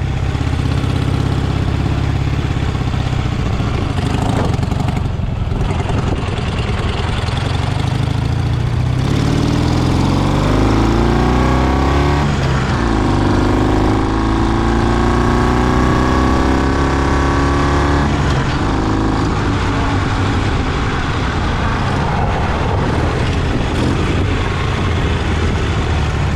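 Off-road vehicle engine running steadily, then revving up from about nine seconds in, dipping briefly and climbing again before the revs drop back to a steady run a few seconds later.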